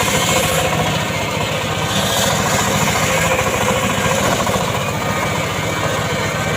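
Homemade 'srekel' chainsaw running steadily, its small engine firing in a fast, even pulse.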